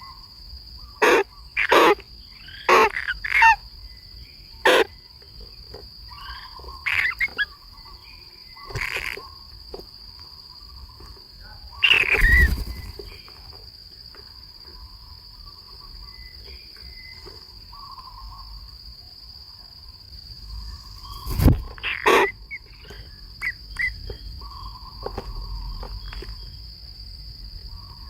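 Natural outdoor ambience: a steady high insect buzz, with short, sharp bird calls at irregular intervals, the loudest about 12 seconds in and again about 21 seconds in.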